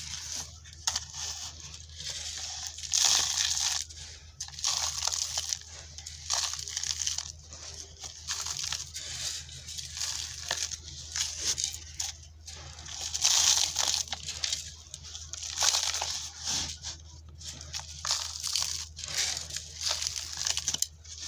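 Dry, dusty chunks of red dirt and sand-cement being crumbled: a run of uneven crisp, crunchy crackles that swell and ease again and again.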